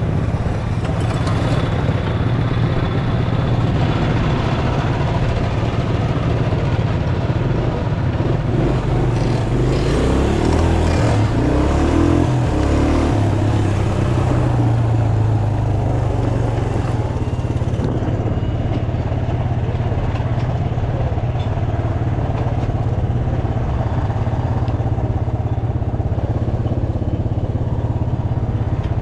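Small mini bike engines running steadily, with another engine's pitch stepping up and down about ten to fifteen seconds in.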